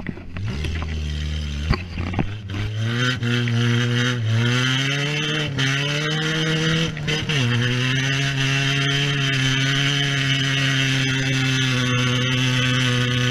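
Citroën AX engine, heard from inside the cabin, pulling hard across a field. It starts low, with a sharp knock near two seconds in. Then its pitch climbs and drops back sharply about four times as it shifts up through the gears, and from about seven and a half seconds on it holds steady.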